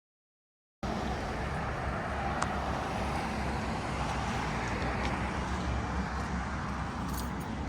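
A steady rumbling noise, heaviest in the low end, that cuts in suddenly just under a second in, with a few faint ticks on top.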